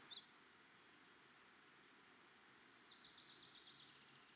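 Near silence, with faint bird chirps in the background: a quick run of short, high notes in the second half.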